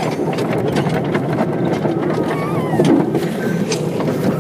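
Small battery-powered mine train rolling along the track: a steady rumble from the cars with irregular clicks and clacks of the wheels on the rails.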